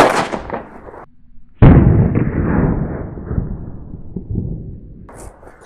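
Enola Gaye paint grenade exploding: a sharp bang at the start, then a louder blast about a second and a half in that dies away over a few seconds.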